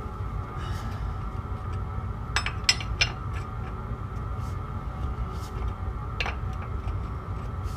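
Several sharp metallic clinks, three close together a little over two seconds in and another near the end, over a steady low hum.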